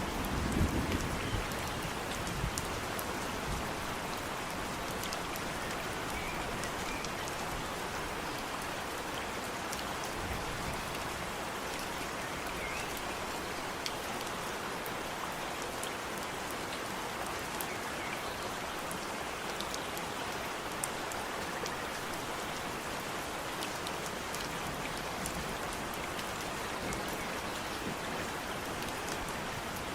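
Steady rain falling, an even hiss with the fine ticks of individual drops scattered through it. A low rumble, the tail of thunder, dies away in the first second or so.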